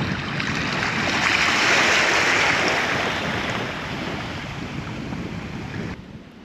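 A sea wave washing in over rocks, a hiss of water that swells for about two seconds, then slowly ebbs away and cuts off near the end.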